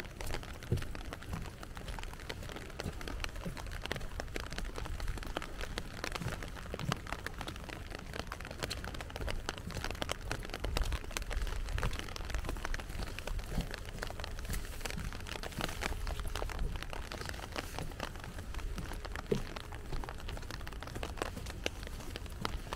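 Steady rain falling, a dense spatter of individual drops hitting surfaces, with a low rumble underneath.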